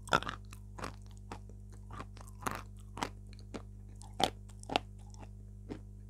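Close-miked chewing of a soft, gooey food: irregular wet mouth clicks and lip smacks, a little over two a second, the loudest about a second in and again near the end, over a steady low electrical hum.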